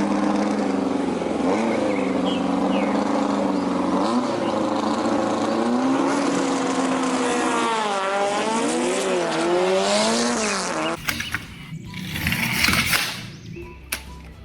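Car engine revving, its pitch rising and falling over and over for about eleven seconds, then giving way to a rougher, noisier burst near the end.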